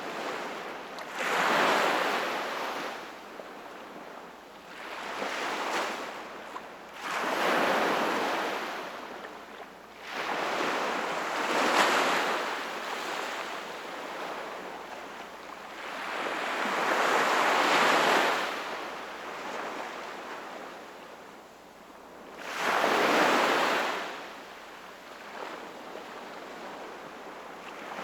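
Sea waves breaking and washing up the shore, one surge about every four to six seconds, each swelling and fading over a couple of seconds, with a quieter wash of water between them.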